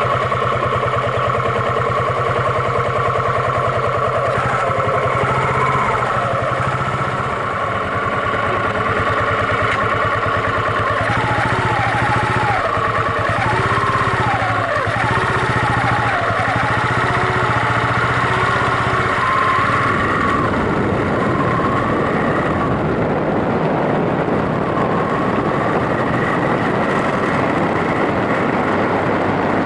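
Yamaha SRX400 single-cylinder four-stroke motorcycle engine running steadily under way. After about twenty seconds a steady rushing of wind and road noise takes over and the engine's low note fades back.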